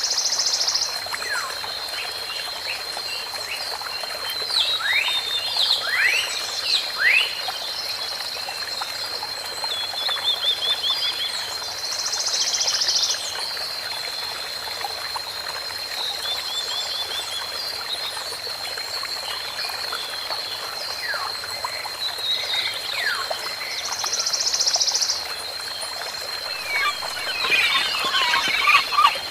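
A chorus of wild calls: short falling chirps and rapid trills, with a louder buzzy call repeating about every twelve seconds, over a steady high-pitched drone.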